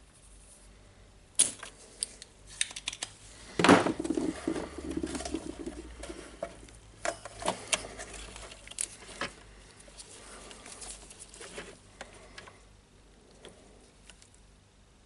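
Hand tools and parts being handled during disassembly of a power-tool site radio: scattered clicks and knocks, the loudest about four seconds in, followed by a couple of seconds of rattling and scraping.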